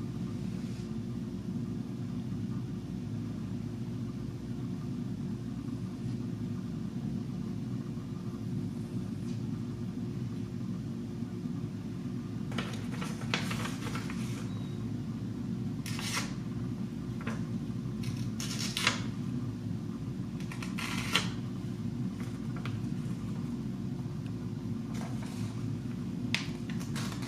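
Steady low hum throughout, with short scraping strokes of a single-bevel broadhead blade being drawn across a sharpener; the strokes come singly and in small clusters from about halfway on.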